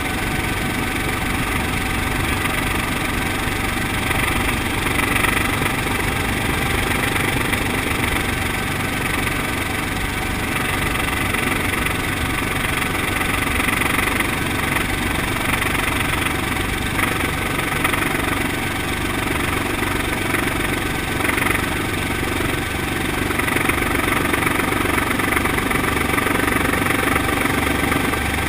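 Brantly B2B helicopter's piston engine and rotor running steadily, with an even level and no clear change in power.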